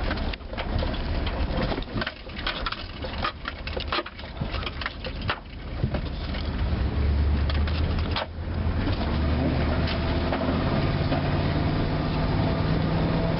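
Vehicle pulling away: dense irregular crunching and crackling for about the first six seconds, then the engine runs with a steady low drone and a faint tone that rises slightly near the end.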